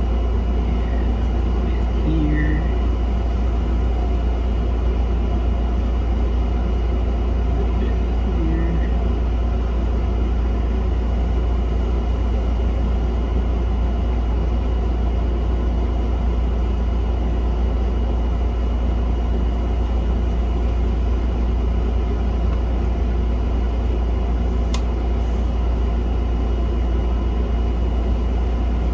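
Steady low rumble with an even hiss over it, with a single sharp click near the end.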